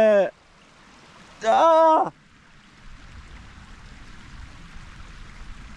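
A man's short wordless vocal sound, held for about half a second, followed by a steady hiss of rain falling on a waterproof jacket and hood.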